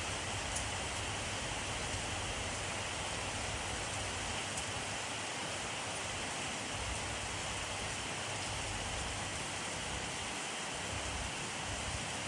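Steady rainfall, an even hiss with a few faint drop ticks.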